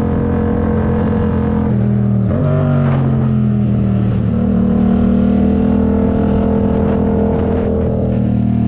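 Yamaha MT-07 parallel-twin engine running under way, holding steady revs. The pitch dips, jumps sharply back up about two seconds in, and settles lower again around the fourth second, like the engine changing speed through gear changes.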